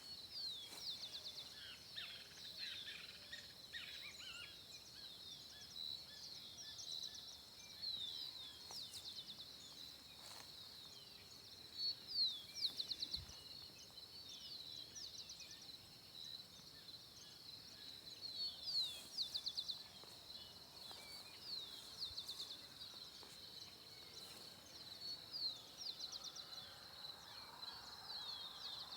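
Songbirds singing short, repeated trilled phrases of quick falling notes every few seconds, over a faint, steady high-pitched drone.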